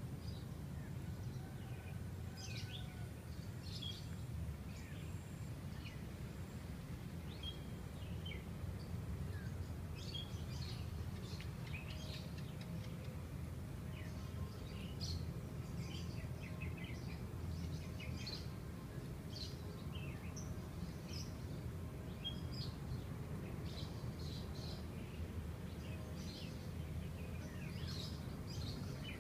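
Small birds chirping and calling, many short, high chirps scattered throughout, over a steady low background rumble.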